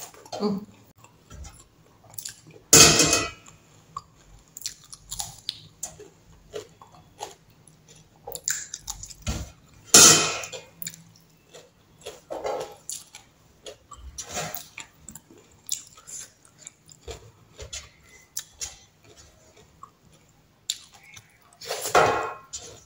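Close-up chewing and wet lip smacking of someone eating with their fingers, a string of short mouth clicks with three louder sharp smacks: a few seconds in, about halfway, and near the end.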